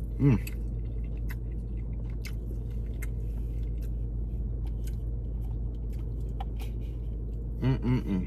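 Close-up chewing and wet mouth clicks of a man eating sushi, over a steady low hum inside a car. There is a brief voiced murmur just after the start and a few more near the end.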